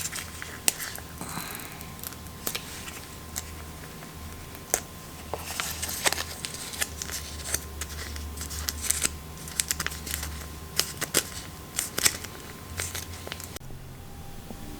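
Plastic sauce sachet being opened and emptied into a bowl: crinkling plastic with many scattered small clicks and ticks.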